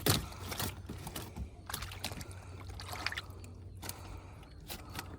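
Water trickling and splashing in short, irregular bursts.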